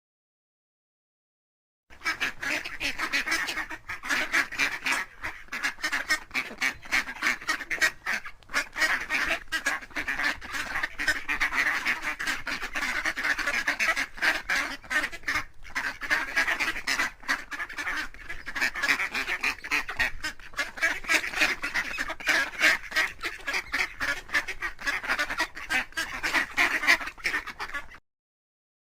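Many ducks quacking together in a dense, continuous chatter that starts about two seconds in and cuts off abruptly near the end.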